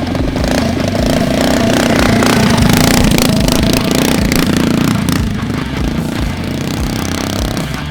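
The mini trike's 212cc Predator Ghost single-cylinder four-stroke engine running loudly under throttle as it is ridden on a dirt track.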